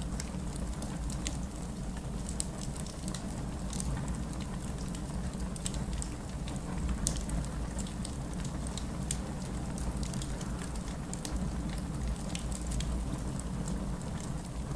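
Wood fire in a fireplace crackling, with sharp pops and snaps scattered irregularly over a steady low rumble.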